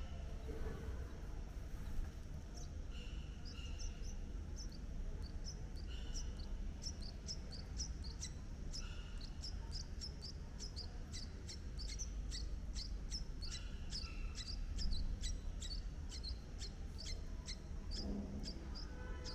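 A bird chirping in a long run of short, high notes, a few each second, with a few longer, lower notes mixed in, over a steady low rumble.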